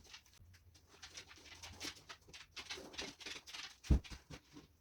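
Thick acrylic pouring paint running from a cup onto a canvas: soft, irregular patters and plops, with one louder low thump about four seconds in.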